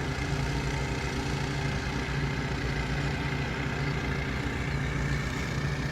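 Several gasoline-engine water pumps running steadily together: a constant low engine drone with no change in speed.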